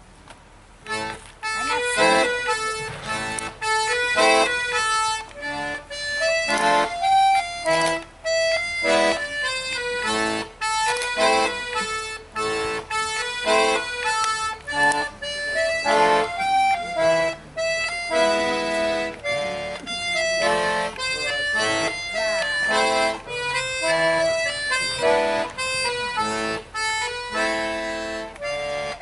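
Accordion playing a melody over chords, the instrumental lead-in to a song.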